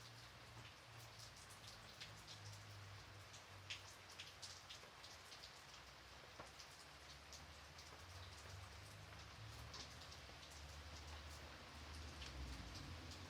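Gentle light rain, faint, with a steady hiss and many separate drops ticking on a surface, over a faint low rumble.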